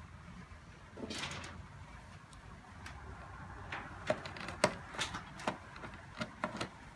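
Plastic parts of a Roomba 780 robot vacuum being handled as it is taken apart for cleaning: a short scraping slide about a second in, then a series of sharp clicks and knocks in the second half.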